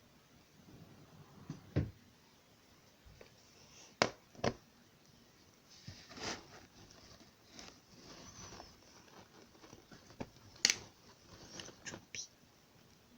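Scattered light knocks, clicks and rustling handling noises, the sharpest a few single knocks about four seconds in and near the end.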